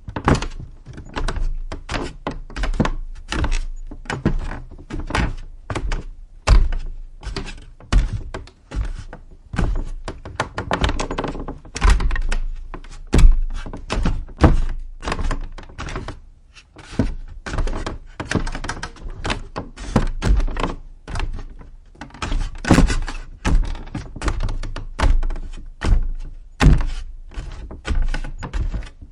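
Footsteps on wood at a walking pace, about two heavy thudding steps a second, some louder than others.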